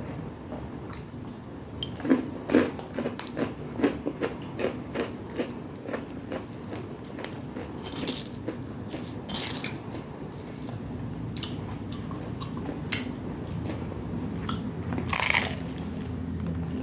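A person chewing crunchy fried snacks close to the microphone, with crisp crunches about two or three a second for a few seconds, then more scattered chewing.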